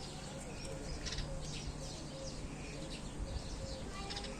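Small birds chirping all around in quick, short calls, over a steady low hum.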